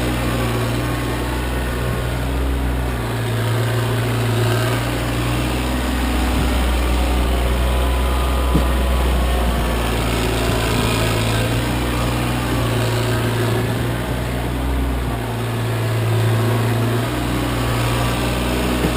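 Kioti CK25 compact tractor's diesel engine running steadily, its low hum shifting twice as the load changes, with one brief click near the middle.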